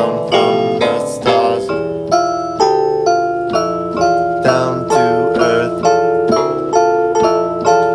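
Instrumental music: a keyboard playing a repeating pattern of bell-like struck notes, about two a second.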